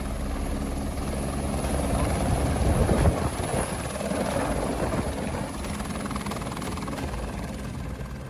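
Airbus H125 helicopter's rotor beating steadily, growing louder up to about three seconds in and then easing slightly.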